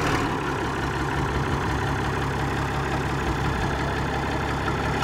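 Muir Hill tractor's engine idling steadily.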